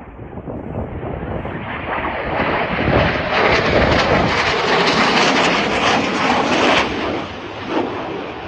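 Lockheed F-117 Nighthawk's two non-afterburning General Electric F404 turbofans in a flyby: broad jet noise that builds steadily, is loudest for about four seconds, then drops away abruptly about seven seconds in and trails off.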